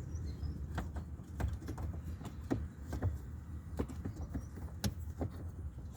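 Scattered light clicks and taps of a plastic HVAC blend-door actuator being handled and pressed down onto its door shaft, over a steady low hum.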